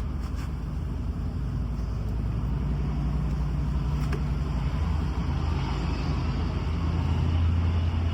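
Steady low hum of a car engine, growing louder toward the end.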